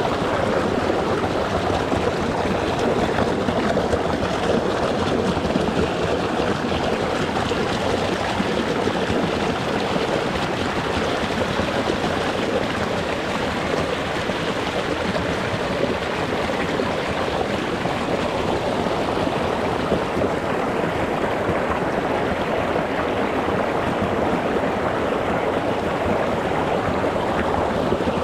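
A small rocky mountain stream flowing and splashing over stones, recorded close to the water: a steady, dense rush with no breaks.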